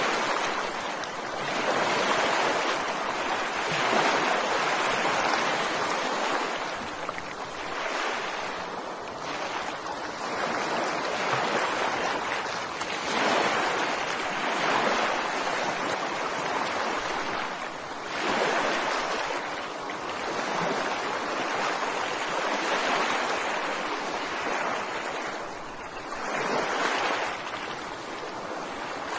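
Ocean surf: waves breaking and washing in, a continuous rush that swells and eases every few seconds.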